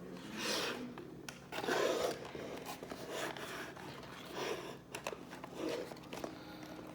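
Toy packaging being handled: plastic and cardboard rustling and scraping in a series of short bursts, with a few sharp clicks.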